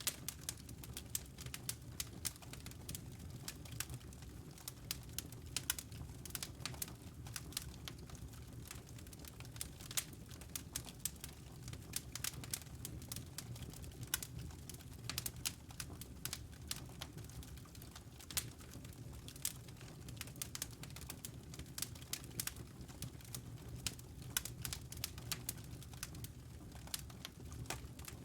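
Wood fire crackling in a fireplace: rapid, irregular pops and snaps of varying loudness over a steady low rumble.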